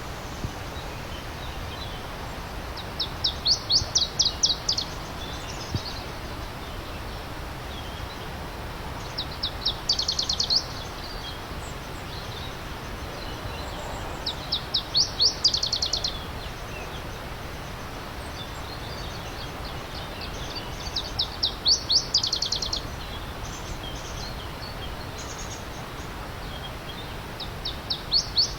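A songbird repeating a short, fast trilled song about every six seconds, each phrase a quick run of high notes that grows louder. Under it is the steady rush of a flowing stream.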